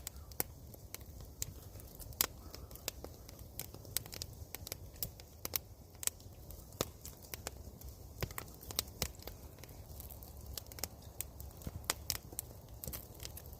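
Wood campfire crackling: sharp, irregular pops and snaps over a low, steady rumble.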